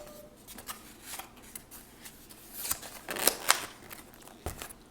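Handling noise at the table: a run of quick, sharp clicks and crackles, busiest in the middle, with a low thump near the end.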